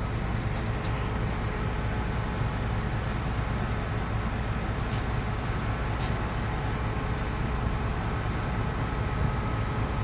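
Crane truck's engine running steadily, a low even drone with a few faint ticks, as the crane slowly lowers the load.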